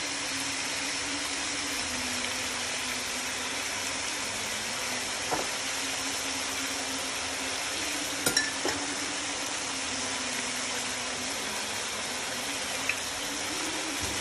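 Chicken pieces sizzling in a hot frying pan with a steady hiss. A few light clicks of a utensil against the pan come about five seconds in, twice near eight seconds, and again near the end.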